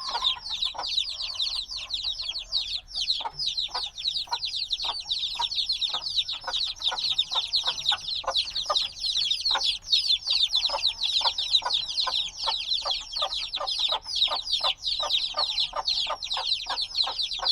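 A brood of chicks a few days old peeping loudly and continuously, many short, high, falling calls overlapping in a dense chorus. The chicks are still calling for the warmth of the mother hen.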